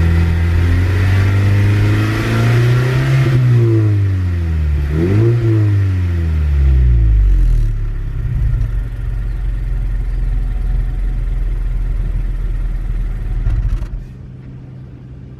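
Exhaust of a 2.0 L Mazda Axela (Mazda3) four-cylinder, revved up and back down twice and then settling to a steady idle. The sound drops sharply in level near the end.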